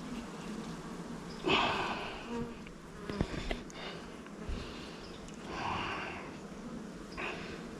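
Honeybees buzzing steadily around an open hive, with a few brief swishing and clicking handling noises.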